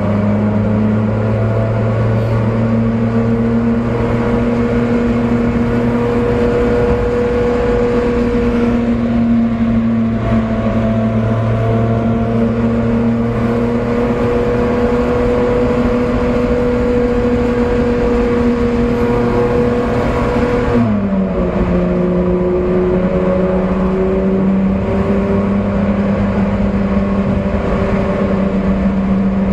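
Ferrari Enzo's V12 engine heard from inside the cabin while cruising, a steady drone. About two-thirds of the way through its pitch drops suddenly, then holds steady at the lower note.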